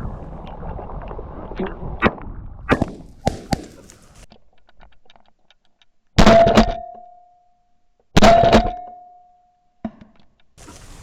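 Two shotgun shots about two seconds apart at a flushed pheasant, each a sudden loud blast trailing off with a short ringing tone; the shooter reckons the first shot missed. Before them there is a rustling with a few sharp clicks.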